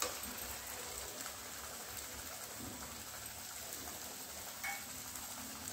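Onion-tomato masala paste sizzling gently in oil in a kadhai, a steady soft hiss with fine crackle while the spices fry.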